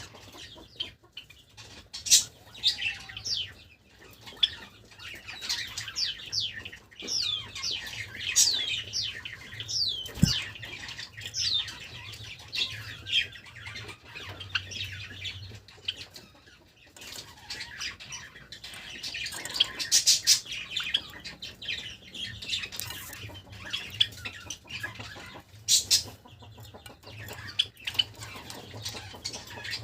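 Pet Java sparrows chirping: many quick, high chirps and short song phrases, with several brief wing flutters and knocks among them. A faint low hum runs underneath.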